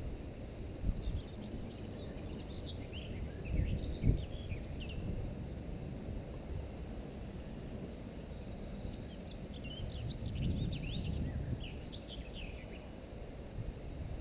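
Small birds chirping and singing in two spells, over a steady low rumble of wind and handling noise on the microphone, with one sharp knock about four seconds in.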